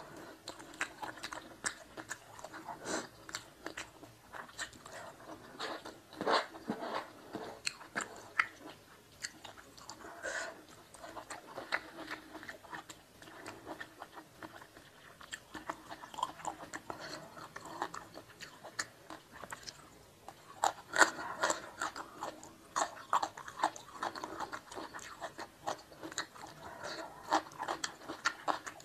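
Close-miked eating: a person chewing and biting food with wet mouth sounds and many short sharp clicks. The bites come thickest about six seconds in and again around twenty-one seconds.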